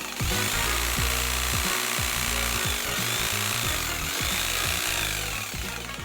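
Ryobi HT-3630 hedge trimmer running, its reciprocating blades sawing through hedge growth, fading out near the end.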